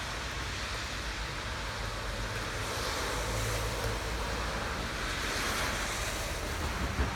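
Steady rain falling, a continuous hiss over a low rumble, swelling louder twice midway, with a single soft knock near the end.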